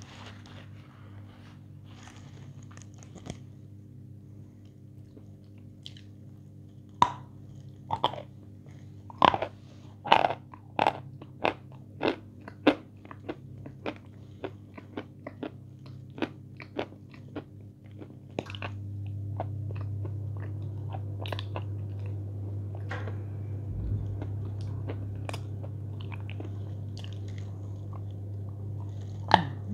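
Close-miked eating sounds: wet mouth clicks and smacks while chewing a soft white sweet coated in chocolate paste, coming in a quick run of sharp clicks through the middle of the stretch and thinning out later. A steady low hum comes in about two-thirds of the way through.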